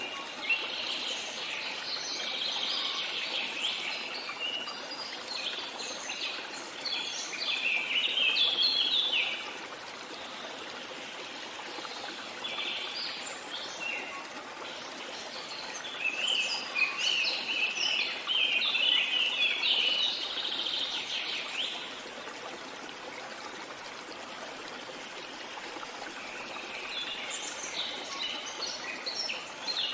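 Songbirds singing in bouts of quick, chirping phrases over a steady rush of flowing water, with a lull of a few seconds after the first bout and a longer one past the middle before the singing returns near the end.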